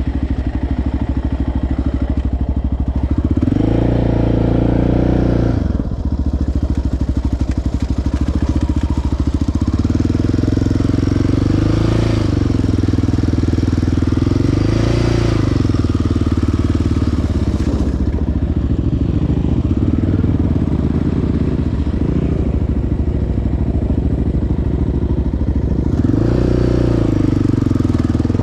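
Single-cylinder four-stroke ATV engine running, its revs rising and falling several times as the throttle is worked: a longer burst about four seconds in, shorter ones around the middle, and another near the end.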